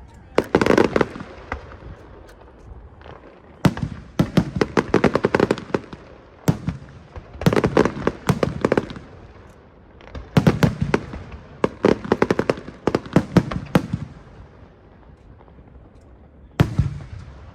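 Aerial fireworks bursting in about five volleys, each a rapid run of sharp bangs and crackles, with short lulls between them.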